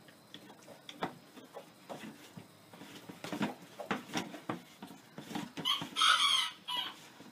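Young goat's mouth and teeth clicking and knocking on the hard plastic lid of a pet-food storage bin, one or two taps a second. About six seconds in, a loud animal call lasting about a second.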